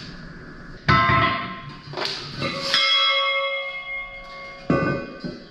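Steel engine stand parts clanking together, about four sharp metal strikes that each ring on like a bell. The longest ring follows the strike nearly three seconds in.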